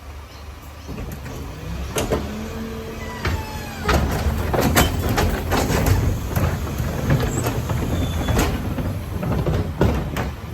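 Garbage truck running with a low, steady rumble that grows louder about two seconds in, with repeated bangs and clatter of metal and bins and a short falling squeal about three seconds in.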